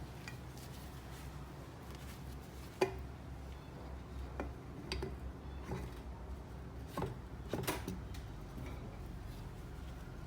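Small metal parts and tools being handled on a workbench: scattered clinks and knocks, the sharpest about three seconds in, over a low steady hum.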